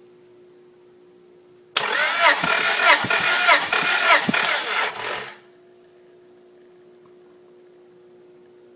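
Honda B18C inline-four engine turned over by its starter for a compression test. It cranks in a quick, even rhythm for about three and a half seconds without firing, then stops abruptly.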